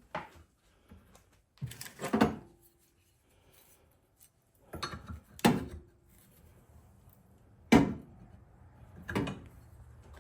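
Metal tools being handled at a workbench: about five or six separate clanks and knocks, two of them leaving a brief metallic ring, while the die is worked on a bolt.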